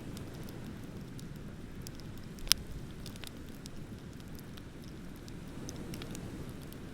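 Wood bonfire crackling with scattered small snaps and one sharp, loud pop about two and a half seconds in, over a steady low rush of ocean waves.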